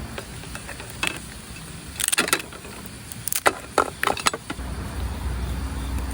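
A few sharp clicks and clatters: a cluster about two seconds in and several more between three and a half and four and a half seconds, from grilled crab being broken apart and handled while eating. A low steady hum comes in near the end.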